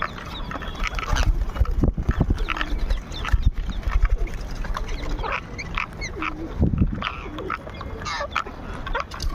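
Parrots calling in short, scattered squawks and chirps, with low rumbles about two seconds in and again near seven seconds.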